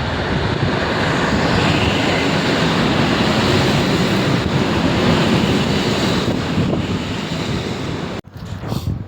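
Train passing through the station at speed: a loud, steady rushing roar with low rumble, mixed with wind on the microphone, cut off abruptly about eight seconds in.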